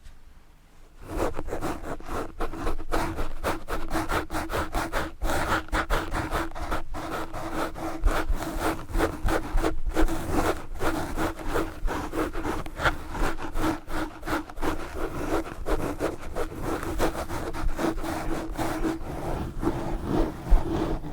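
Fast, hard scratching of a Blue Yeti microphone with knitted yarn gloves: rapid rasping strokes of wool rubbing across the mic, starting about a second in and going on without pause.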